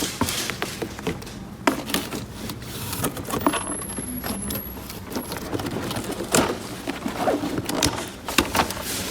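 Small plastic toy pieces being handled, giving irregular light clicks and taps over a faint steady low hum.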